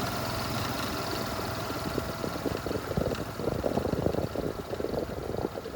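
Motor vehicle engine running steadily, joined from about two seconds in by irregular rattling and crackling.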